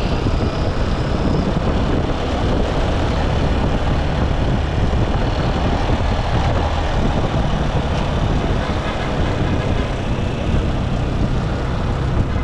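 Motorcycle engine running on the move, with steady wind and road noise.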